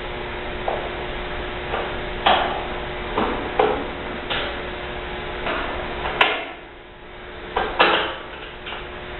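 Irregular knocks, clicks and short scrapes of dishwasher parts and hand tools being handled during disassembly, about ten in all, with the loudest pair near the end, over a steady low hum.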